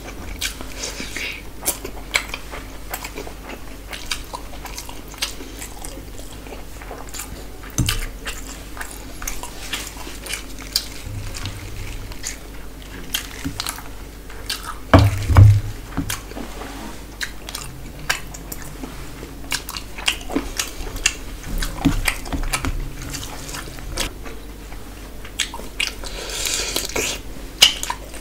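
Close-up eating sounds of a man eating rice and curry by hand: steady chewing and mouth clicks. About halfway through, a louder clatter as a curry plate is tipped over the rice.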